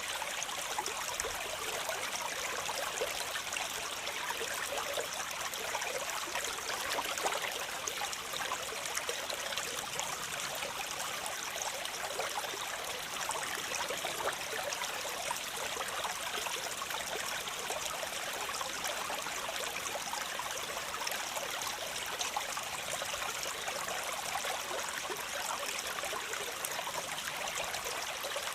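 Waterfall: a steady rush of falling water, an even bright hiss with little low rumble.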